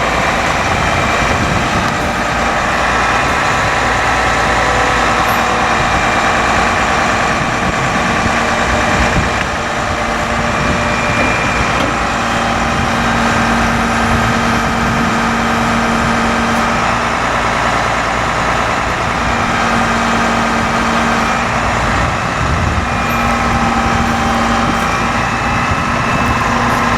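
Hino 338 bucket truck's diesel engine running at high idle with the PTO engaged, driving the hydraulic pump for the Altec boom. It is a steady, loud engine-and-hydraulic drone with whining tones that shift a few times as functions are worked.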